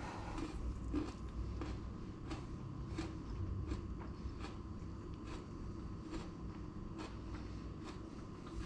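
Salad being eaten from a stainless steel bowl: a fork picking up lettuce and avocado and crisp leaves being chewed, a series of short soft crunches and clicks about one or two a second over a steady low hum.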